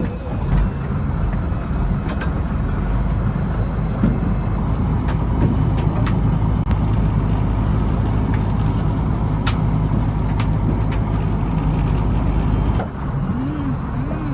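A fishing trawler's diesel engine running steadily with a deep drone, with a few sharp knocks over it. About 13 seconds in the drone drops and changes.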